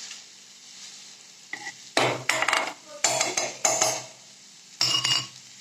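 Metal utensil scraping and knocking against a kadai while mashing cooked potatoes, in three short bouts in the second half, over a faint sizzle of the pan on low heat.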